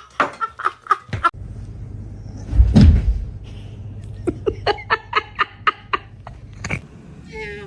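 A heavy thump, then a person laughing in short quick bursts, about four a second, with a few sharp clicks around it.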